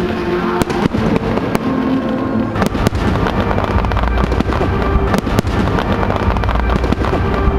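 Aerial fireworks display: a dense, continuous rumble of shell bursts and crackle, with several sharp bangs standing out above it.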